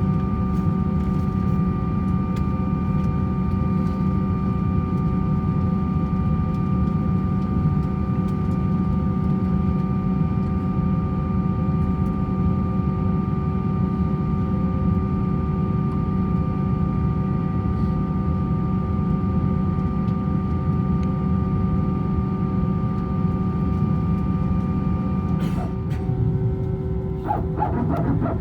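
Airbus A321-200 cabin noise: a steady jet-engine drone and airflow rumble with several held tones. Near the end the tones shift and there are a few short clicks.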